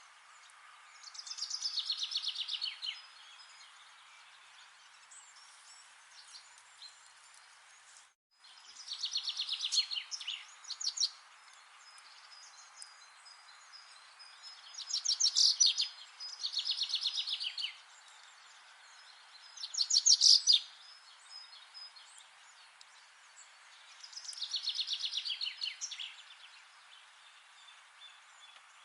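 A songbird singing a rapid trilled phrase, about two seconds long and falling in pitch, repeated about six times over a steady hiss of forest ambience. The sound cuts out completely for a moment just after 8 seconds.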